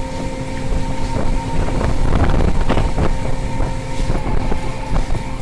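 Fishing boat's engine and deck machinery running steadily with a low rumble and hum, with wind on the microphone and irregular knocks and clatter.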